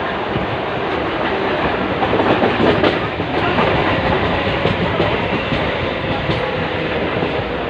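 Indian Railways train running on the track: a steady rumble and rattle, with a few sharp clicks of the wheels over rail joints.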